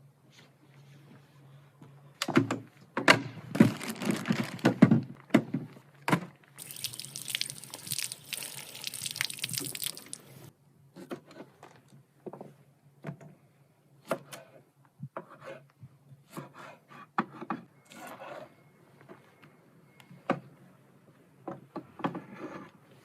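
Knocks and clatter of objects being handled, with a stretch of about four seconds of steady pouring or running water in the middle, then scattered single knocks and clicks.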